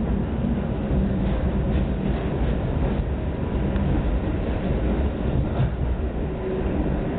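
Passenger train running along the track, heard from inside the carriage: a steady low rumble of wheels on rails, with a few faint clicks at irregular moments.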